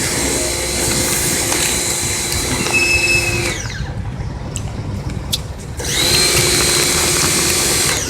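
A small motor whining steadily, winding down about three and a half seconds in and starting up again about two and a half seconds later.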